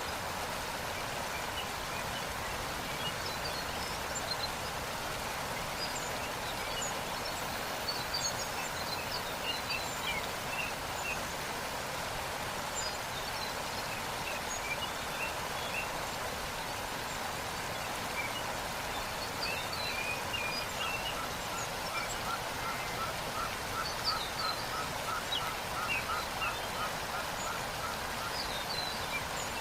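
Waterfall rushing steadily, with small birds chirping over it here and there. About two-thirds of the way through, one bird gives a rapid run of repeated notes, about three a second, for several seconds.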